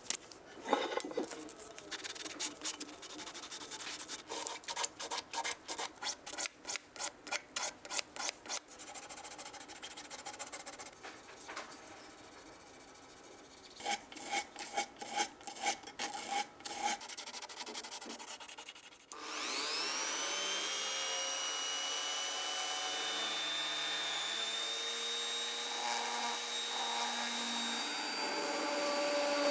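Rhythmic rasping strokes of hand filing or sanding, two or three a second with short pauses. About two-thirds of the way through a small electric motor starts, its whine rising as it spins up, and then runs steadily.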